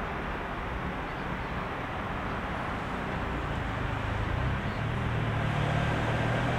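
Heavy city road traffic: a steady wash of tyre and engine noise from passing cars. In the second half a low vehicle engine hum grows louder as it comes closer.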